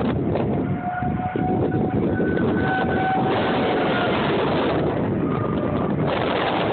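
Storm wind buffeting the microphone, with a distant outdoor tornado warning siren wailing faintly through it, its tone drifting slowly.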